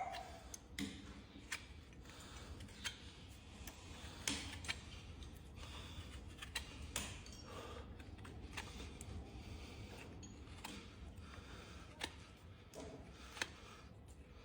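Farrier's tools trimming a horse's hoof: irregular sharp clicks and snips, with a few short scraping strokes between them.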